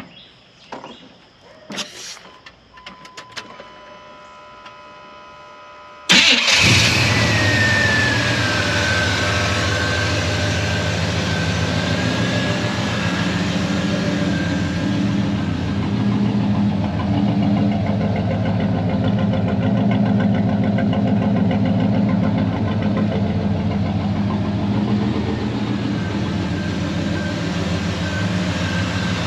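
OBS Chevrolet truck's swapped V8 with stainless headers starting about six seconds in, catching suddenly and settling into a steady idle. A high whine falls in pitch just after it fires. Before the start there are a few clicks and a steady beep.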